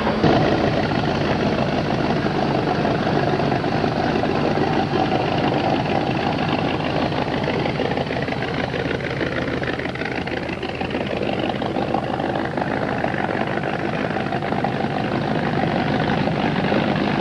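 An engine running steadily under a dense noisy wash, with a slight dip in loudness about ten seconds in.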